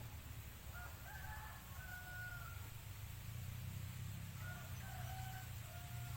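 Wind blowing steadily as a low rumble. Over it, a rooster crows faintly in the distance twice, once about a second in and again near the end.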